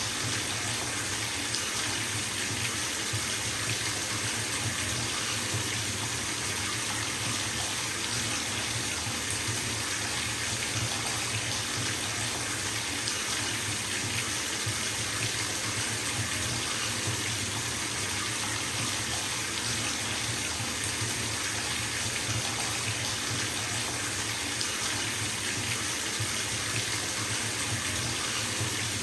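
Water running steadily from a bathtub tap into the filling tub, an even hiss and splash with no change in flow.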